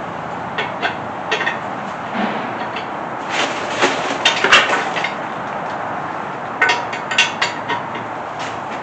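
Metal hand tools and bolt hardware clinking and clanking in short clusters as a mounting bolt is worked loose from an engine stand holding a small-block Chevy 350.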